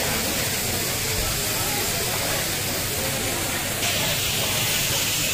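Chicken pieces sizzling on a large flat tawa griddle, a steady steamy hiss that grows brighter about four seconds in.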